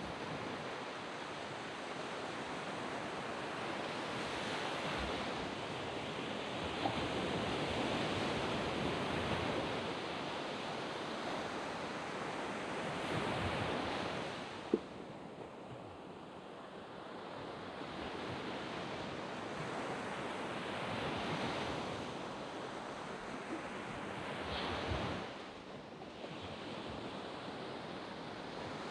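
Sea waves breaking and washing up a sandy beach, swelling and ebbing in two slow surges. A single short, sharp click comes near the middle.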